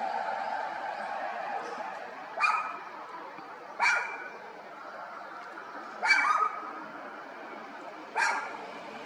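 Brown-eared bulbul giving four loud, harsh calls about two seconds apart, over a steady background hum.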